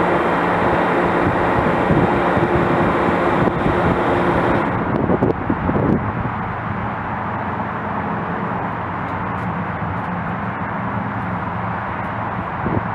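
Train running past, a loud steady rumble with a low hum; about five seconds in it changes abruptly to a quieter rumble.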